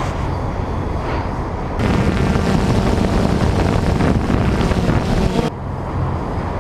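Wind buffeting the microphone over a steady low rumble. It gets louder suddenly about two seconds in and drops just as suddenly near the end.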